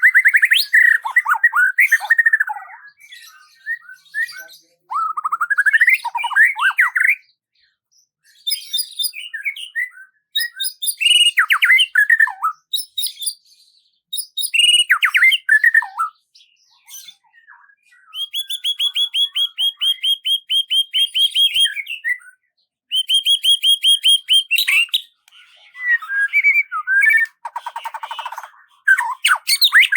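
A songbird singing in bursts of quick chirps and trills, with short pauses between phrases. Some phrases are fast strings of rapidly repeated, evenly spaced notes.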